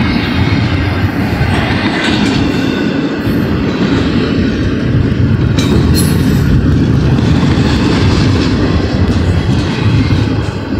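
CSX intermodal freight train rolling through a grade crossing close by: loud, steady noise of the cars' wheels on the rails.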